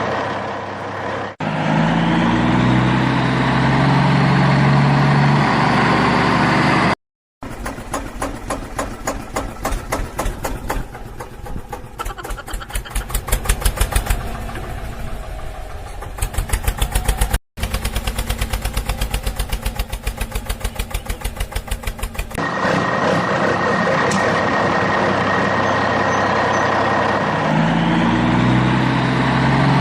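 Engine sound, steady for the first seven seconds or so. It then cuts to a fast, even pulsing for about fifteen seconds, broken twice by brief dropouts, and returns to the steady running sound near the end.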